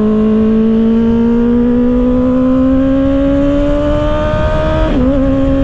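2024 Kawasaki ZX-6R's 636 cc inline-four running through an M4 exhaust with its baffle still in, its pitch climbing steadily under throttle, then dipping briefly about five seconds in and holding steady, with wind rumble on the microphone.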